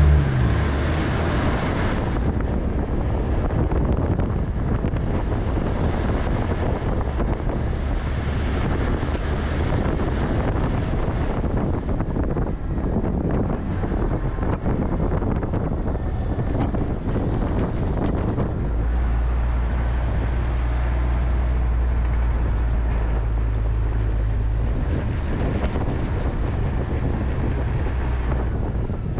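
Volvo A25G articulated haul truck's diesel engine running under way: a steady low drone with rumble and wind noise. The low engine note grows louder from about two-thirds of the way through until near the end.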